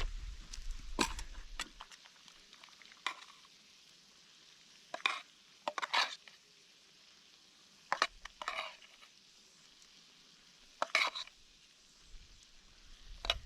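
Bacon and kolbulle batter frying in a pan over a campfire with a faint steady sizzle, broken by a handful of short scrapes and clinks of a utensil against the pan.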